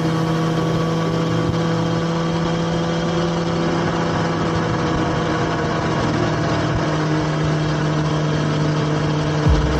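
BMW S1000XR's inline-four engine running at a steady cruise, a constant engine note with wind and road rush.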